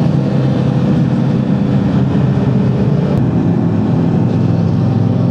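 Honda CBR650R's inline-four engine running at steady revs while the motorcycle is ridden.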